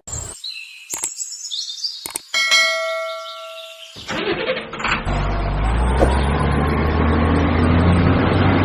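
A few high bird-like chirps and a single bell ding that rings out for about a second and a half, then from about halfway a vehicle engine running steadily with a low rumble.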